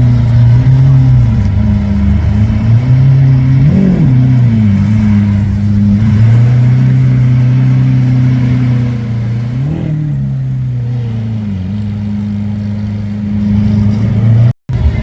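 Lamborghini Aventador's V12 idling, blipped into two short revs, about four seconds in and again near ten seconds, each rising and falling back to idle. The sound cuts out abruptly for a moment just before the end.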